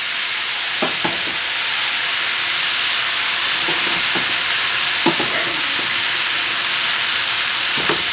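Shredded cabbage and carrots sizzling steadily in a hot stir-fry pan, with a few short scrapes and knocks of a wooden spatula against the pan as the vegetables are stirred.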